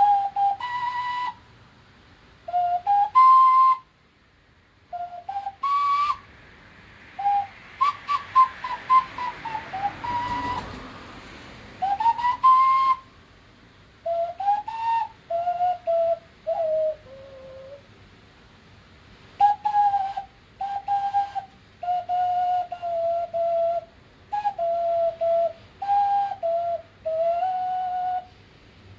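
A man whistling with his mouth in short melodic phrases, with notes sliding up and down and brief gaps between phrases. About eight seconds in, a few seconds of rapid clicks over a rushing hiss join the whistling.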